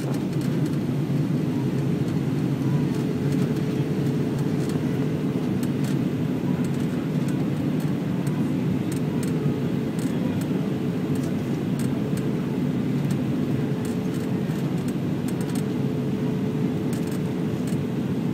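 Steady cabin noise inside an Airbus A320 in flight: a low, even roar of engines and airflow with a faint steady hum above it.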